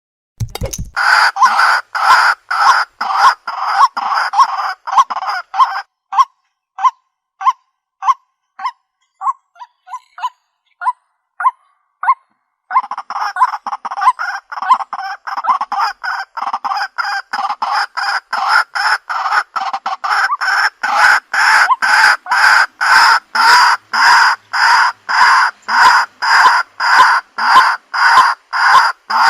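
White-breasted waterhen calling: loud, rhythmic notes repeated about two or three a second. Partway through, the calls thin to short, spaced notes and break off briefly, then resume as a steady run. This is a decoy call recording, played to lure waterhens in.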